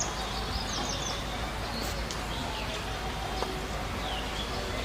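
Birds calling with short, scattered chirps and down-curving notes over a steady background hiss.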